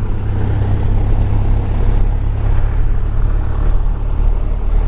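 Aircraft engines running steadily after landing, a loud, even drone with a strong low hum.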